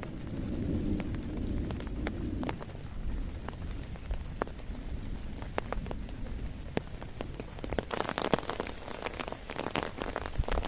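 Heavy rain falling, with many single drops striking close by as sharp taps over a low rumbling background. The rain grows denser and hissier about three-quarters of the way in.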